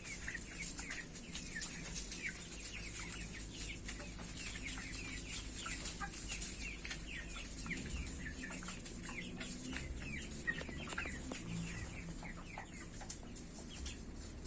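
A flock of broiler chickens peeping and clucking, many short falling calls overlapping without a break, over a steady high hiss.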